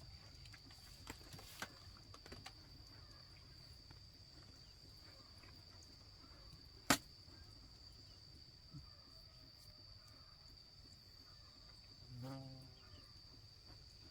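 A steady high-pitched insect trill, cricket-like, runs on in a quiet field. A single sharp knock sounds about seven seconds in, with a few lighter clicks in the first few seconds.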